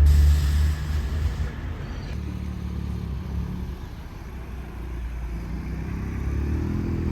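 Car engine sound in the street, loud at first and fading over a couple of seconds. Then a car engine grows louder again near the end, its pitch rising as it accelerates.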